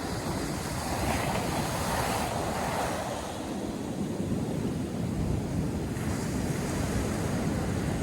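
North Sea surf breaking and washing on the beach, a continuous rush with a brighter surge of breaking water about one to three seconds in. Wind buffets the microphone with a low rumble throughout.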